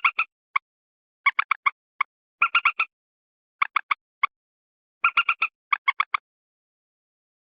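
Common moorhen giving short, clipped call notes in quick bursts of three to five, spaced by pauses of about a second. It is an edited lure-call recording, so the gaps between bursts are fully silent.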